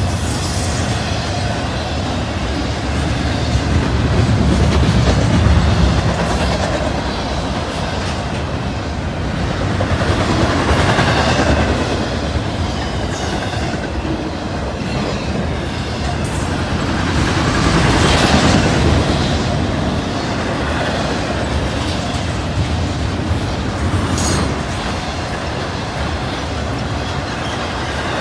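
Intermodal freight train cars rolling past close by, steel wheels on the rails making a continuous rumble that swells louder several times.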